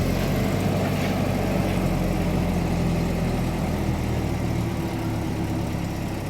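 Engine idling steadily just after being started, easing slightly in level about four seconds in.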